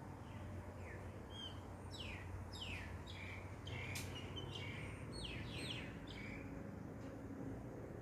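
Birds chirping: a quick run of short, falling chirps, thickest in the middle few seconds, over a steady low background rumble.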